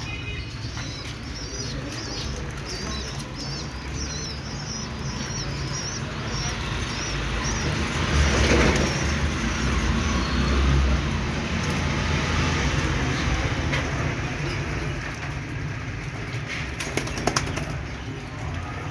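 Birds flapping their wings, with a run of short, high chirps in the first few seconds and a steady low rumble underneath.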